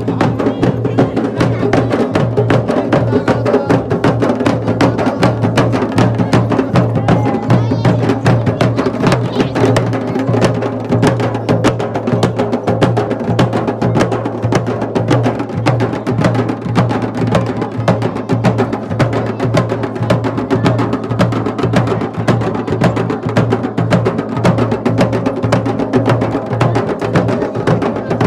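Fast, continuous drumming, the strokes coming thick and even with no pause.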